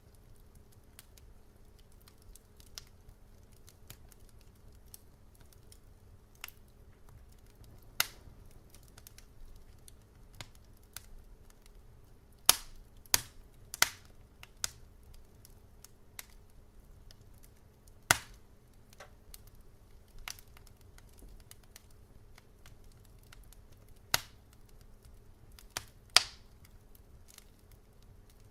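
Wood fire crackling in a fireplace: irregular sharp pops and snaps over a low steady rumble, with a quick run of loud pops about halfway through.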